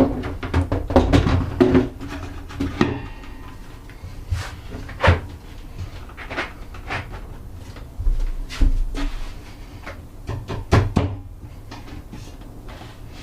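Irregular wooden knocks, clunks and clicks as a boat's countertop and cabinetry are handled and the counter is set in place on its cabinet. The knocks are thickest in the first couple of seconds, with sharper single knocks about five seconds in and again near the end.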